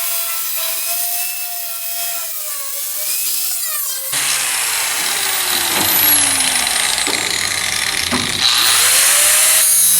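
Handheld power cutting tool slicing rusted sheet steel out of a car body panel. The motor whine wavers and sags under load, turns into a harsher, hissing cut about four seconds in, and near the end its pitch drops and then winds back up.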